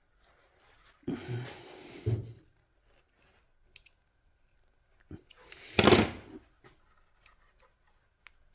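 Handling noises from small wiring work at the bench: a rough rustling scrape lasting about a second, starting about a second in, then a shorter, louder rustle around six seconds in, with a few faint ticks between.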